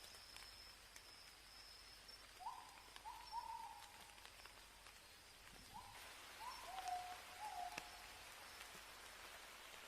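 A bird calling in two runs of short whistled notes, each note rising quickly and then held, over a steady faint hiss of rain. A thin high insect whine fades out in the first couple of seconds.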